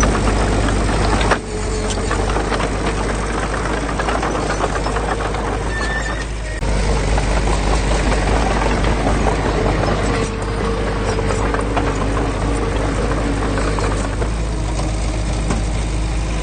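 Diesel engine of heavy earthmoving machinery running under load with a deep rumble and dense metallic rattling and clanking. The sound changes abruptly about a second in and again near the middle.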